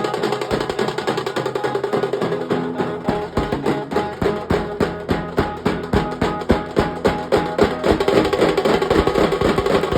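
Nasik dhol drumming in a fast, steady beat of about four strokes a second, with a melody playing over it. The deeper drum strokes come in heavier about three seconds in.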